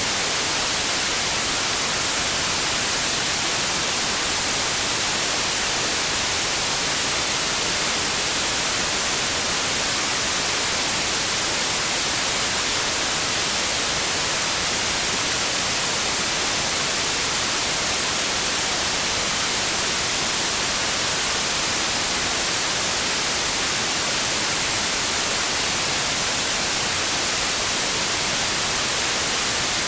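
Steady, unchanging white noise: an even hiss weighted toward the high frequencies, with no other sound.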